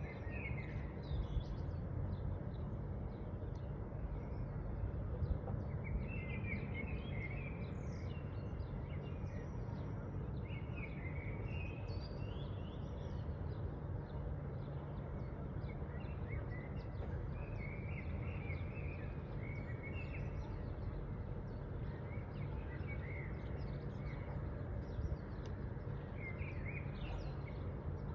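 Small birds chirping and trilling in short, repeated calls over a steady low background noise.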